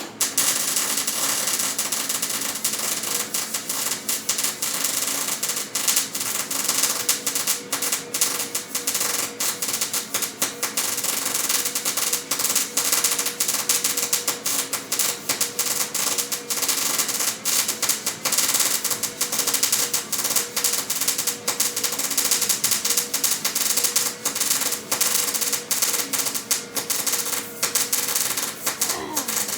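A handheld power tool runs continuously on metal with a steady whine and a dense, rapid rattle. Near the end it is switched off and winds down in pitch.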